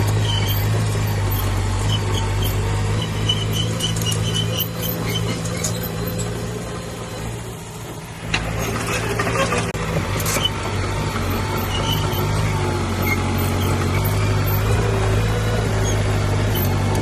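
Diesel engine of heavy earthmoving machinery running steadily. It eases off briefly about halfway through, then comes back with a series of metal clanks and scrapes, alongside intermittent high squeaks.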